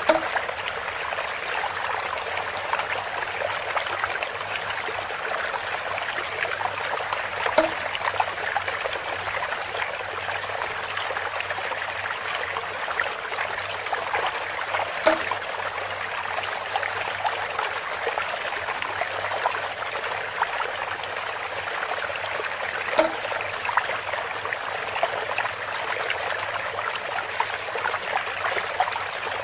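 Water trickling and running steadily through bamboo, with a short pitched knock repeating about every seven and a half seconds, four times.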